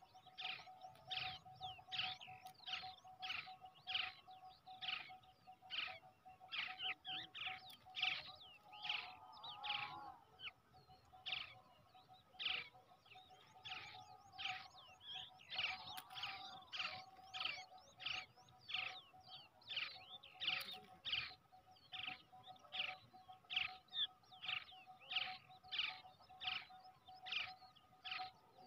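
Brown shrike chicks calling: short, sharp chirps repeated about twice a second without a break, over a steady faint tone.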